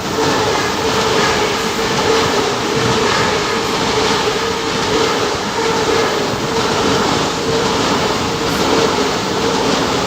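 Train running past on the rails: a steady, loud rolling noise with a held hum over it.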